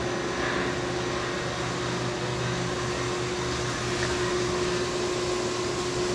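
Steady machine drone with a hiss and a constant hum, from a Fanuc Robodrill CNC mill running a cutting cycle.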